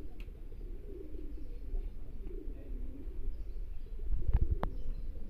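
Domestic pigeons cooing with low, rolling, warbling calls, and a couple of sharp taps about four seconds in.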